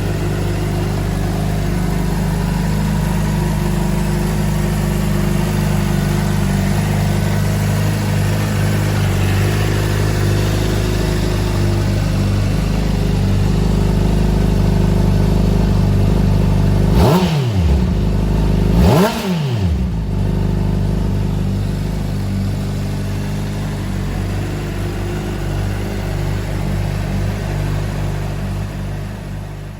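Honda CBR600RR's inline-four engine idling steadily, then blipped twice in quick succession a little past halfway, each rev rising sharply and dropping straight back to idle.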